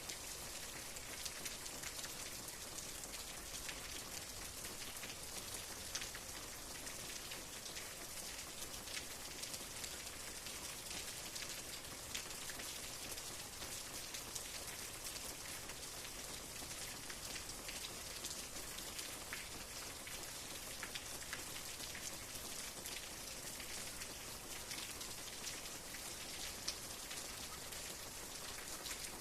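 Steady rainfall with many individual drops pattering close by, an even hiss with small drop clicks scattered throughout.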